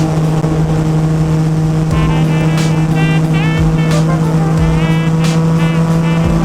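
2016 Yamaha FZ-09's three-cylinder engine, breathing through a full M4 exhaust, running at a steady, unchanging engine speed while cruising on the road.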